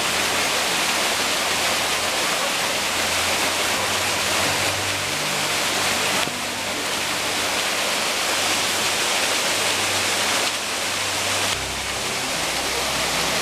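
Steady rush of a waterfall pouring close by, with the loudness shifting slightly a few times.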